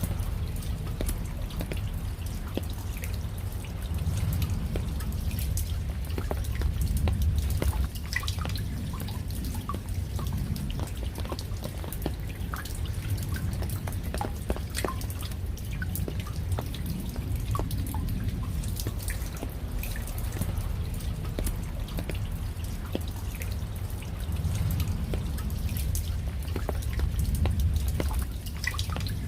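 Rain with scattered individual drops ticking and dripping, over a low steady rumble that swells twice.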